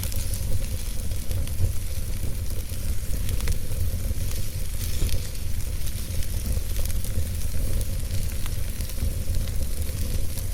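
A fire burning in a fireplace: a steady low rumble and hiss with frequent small, irregular crackles and pops.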